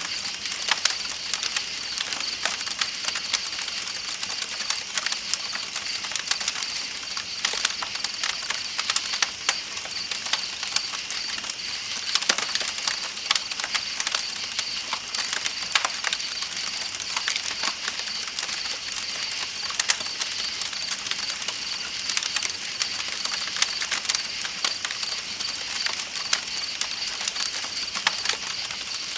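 Campfire crackling with irregular sharp pops over a steady hiss of flowing water, and a continuous high trill of night insects.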